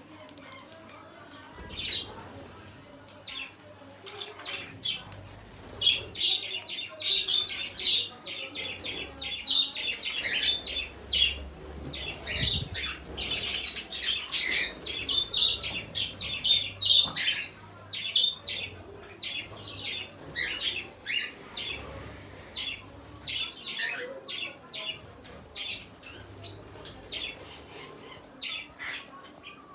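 Pet parrot making runs of short, scratchy chirps, squawks and clicks, thickest about ten to fifteen seconds in.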